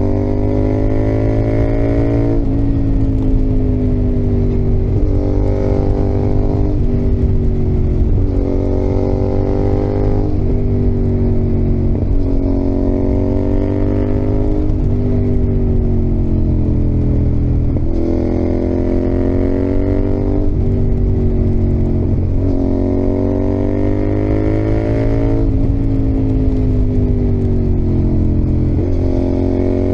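Yamaha XSR700's 689 cc CP2 parallel-twin engine pulling under way, its pitch climbing and then dropping about eight times as the rider accelerates, shifts and eases off through the bends.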